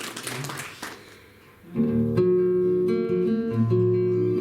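Applause dies away, and about two seconds in the guitar accompaniment of a song starts, with steady, sustained bass notes under it.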